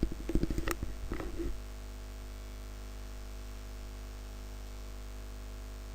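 Steady low electrical hum and hiss of the recording, with a few faint clicks and short noises in the first second and a half.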